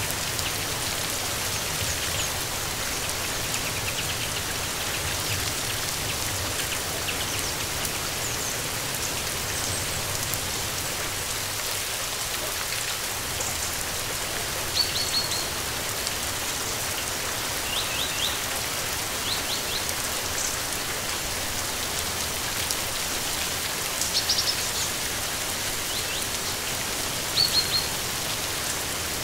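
Steady rain falling, with a bird giving scattered short, high chirps every few seconds; the loudest chirps come about halfway and near the end.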